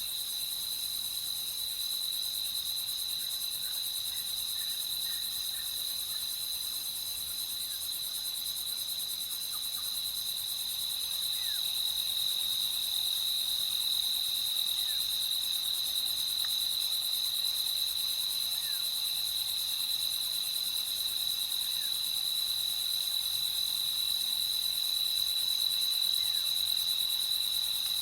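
Steady chorus of crickets trilling, with a few faint short chirps from other night creatures now and then.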